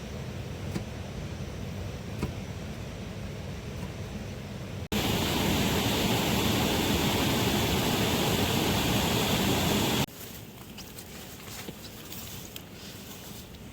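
Steady heavy rain, an even hiss. About five seconds in it cuts abruptly to a louder, fuller downpour, and about five seconds later cuts back to softer rain with scattered small ticks.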